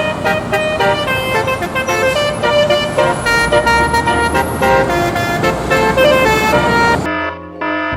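Bus telolet horns, multi-tone air horns, sounding a run of changing notes over traffic noise. About seven seconds in there is an abrupt cut to a cleaner series of short repeated tones.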